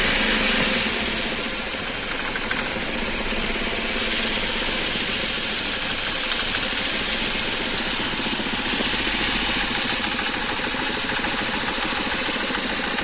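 BMW 523i straight-six engine idling steadily while shaking slightly with a misfire, which the mechanic puts down to a faulty Vanos solenoid.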